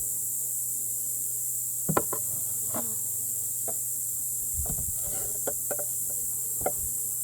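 Wooden beehive parts being worked: a few short, sharp knocks and clicks, about two seconds in, again near three seconds, a cluster in the middle and one more near the end, over a steady high hiss.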